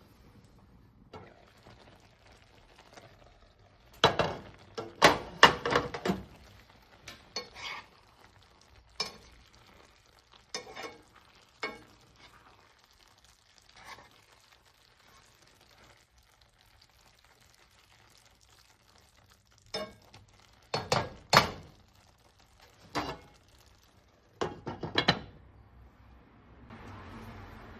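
Kitchen utensils clinking and knocking against pots and dishes while food is handled, in scattered bunches of sharp clinks with quiet gaps between, and a soft hiss near the end.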